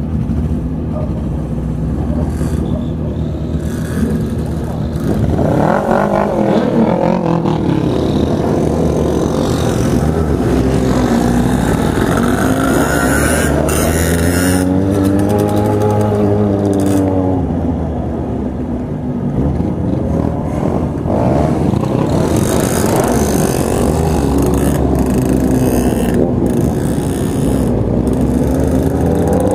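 Motorcycles riding in a group, engines running over a steady rush of wind and road noise. An engine climbs in pitch and drops back in the middle, and again near the end, as it accelerates and eases off.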